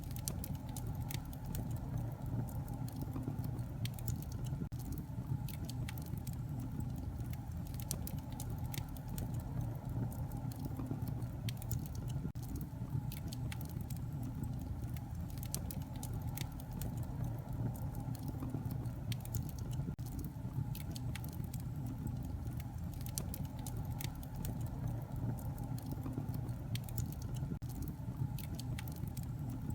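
Wood fire in a fireplace crackling, with a steady low rumble of the flames and frequent scattered sharp pops and snaps.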